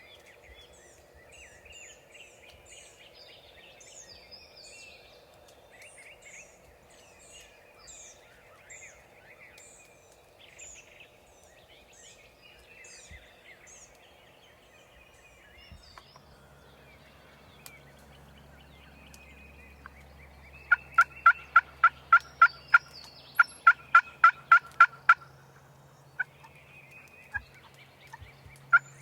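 Songbirds singing faintly, then about two-thirds of the way in, loud runs of rapid turkey calls, about five notes a second in bursts of roughly two seconds, repeating to the end. A low steady hum runs underneath from about halfway.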